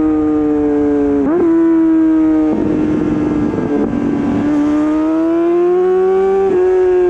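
Honda CBR600RR inline-four running through an Akrapovič exhaust while riding. The note sags slowly with a quick blip about a second in, turns rough for a couple of seconds, then climbs steadily as the bike accelerates and drops back with a shift near the end.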